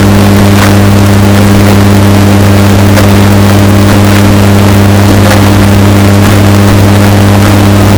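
Washing machine running with a steady, deep motor hum, bass-boosted and heavily distorted so it sounds very loud.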